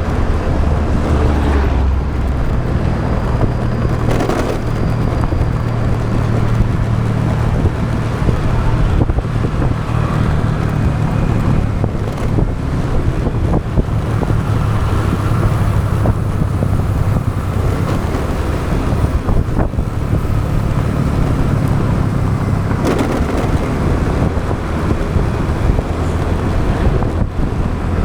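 Motorbike engine running steadily while riding, with road noise and wind on the microphone, and a few brief knocks.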